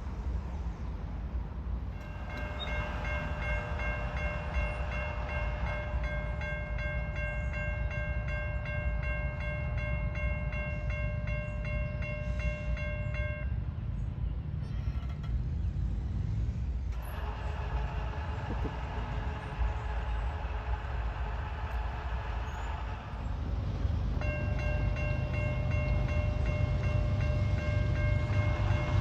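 CSX diesel locomotive's multi-note air horn sounding three long blasts over the steady rumble of the train. The first blast lasts about eleven seconds, and the later two are shorter.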